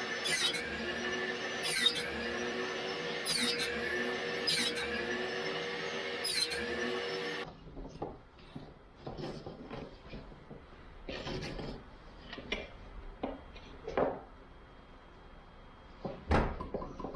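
A small power tool runs steadily, with a sharp stroke about every second and a half as it works the wood. It cuts off suddenly about halfway through, and scattered wooden knocks and rubbing from hand work follow, with one sharp knock near the end.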